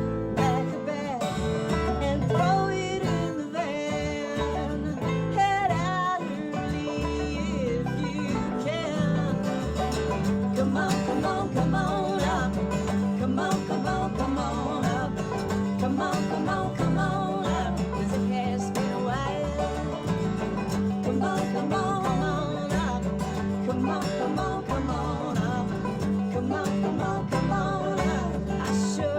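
A live acoustic band playing a country-style song on plucked strings, with singing.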